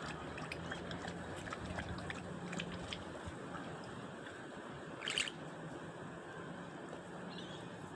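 Quiet outdoor background noise with faint scattered ticks and one short, high chirp about five seconds in.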